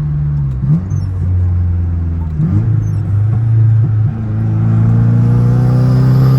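Turbocharged Nissan SR20 four-cylinder engine pulling under load on a drive, heard from the cabin: its pitch drops and climbs again twice early on, then holds a long steady pull. The engine is misfiring and breaking up, which the owner thinks comes from a boost leak after the MAF.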